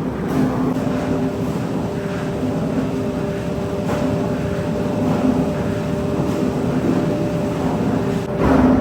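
Factory machinery running steadily: a continuous mechanical din with a few steady humming tones.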